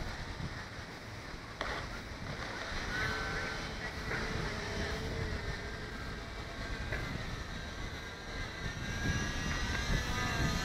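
Hobbyzone Delta Ray RC plane's electric motor and propeller whining in flight, its pitch wavering as it flies, over a steady rumble of strong wind on the microphone; the whine grows louder near the end.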